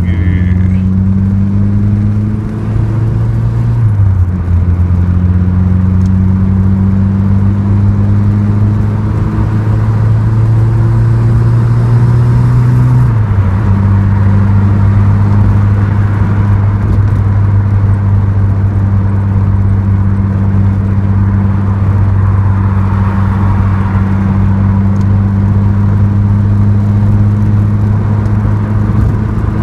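Ford Escort RS Turbo's 1.6 CVH turbocharged four-cylinder engine, freshly rebuilt and still being run in, pulling the car up through the gears. Its note climbs, drops at a gear change about four seconds in, climbs again and drops at a second change about thirteen seconds in, then holds nearly steady at cruising speed.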